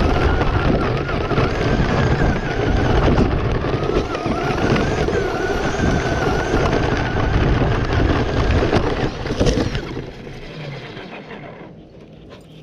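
Traxxas Slash RC truck being driven, its electric motor whining and wavering in pitch with the throttle over a loud rushing noise, fading away about ten seconds in.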